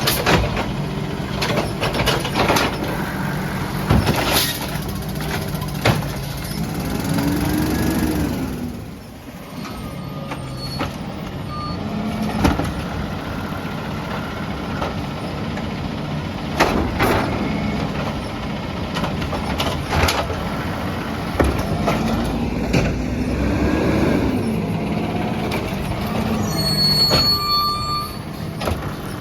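Peterbilt 320 garbage truck's engine running, revving up and back down twice, with repeated sharp bangs and clanks.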